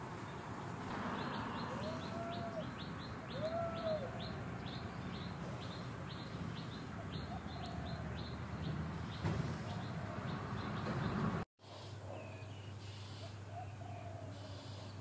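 Birds calling outdoors: a rapid series of short high chirps, about three a second, with two short rising-and-falling calls about two and a half and three and a half seconds in. The sound cuts out for a moment near the end.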